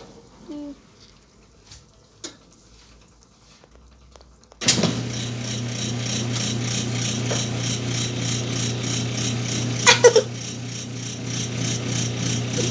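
A Whirlpool washing machine starts running abruptly about four and a half seconds in and keeps going: a steady motor hum under a rattling wash noise, with faint clicks before it. A brief high pitched sound cuts in about ten seconds in.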